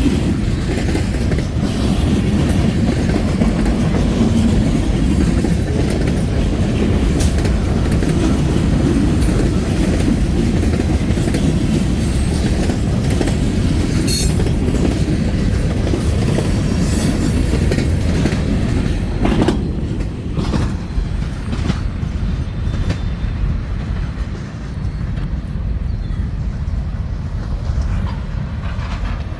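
Freight train cars rolling past close by: a heavy steady rumble with the wheels clicking over the rail joints. It eases off somewhat about two-thirds of the way through.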